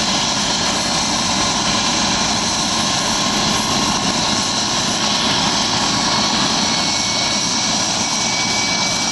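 Helicopter's turbine engine and rotors running steadily on the ground before lifting off, a dense, even noise with a steady high whine.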